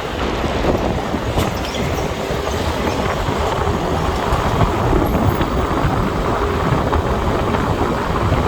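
Steady noise of a motorbike on the move: the wind rumbling on the microphone over engine and tyre noise.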